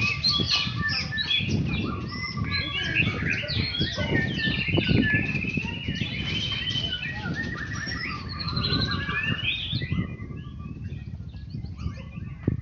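Several songbirds singing at once: a dense mix of chirps, trills and whistled phrases, over a low rumble, the song thinning out near the end.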